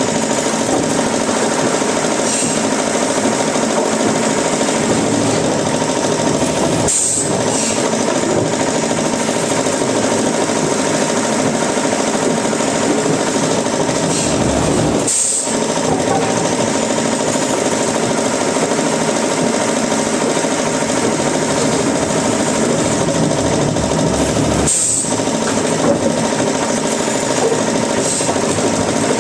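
Woodworking machinery running steadily and loudly, with three brief breaks.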